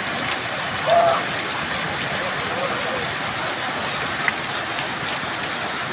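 Steady rushing of a mountain stream falling through a cascade of waterfalls. A short voice sounds about a second in.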